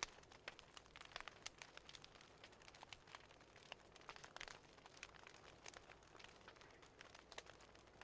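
Faint crackling of a wood fire in a fireplace: irregular small pops and snaps over a soft hiss.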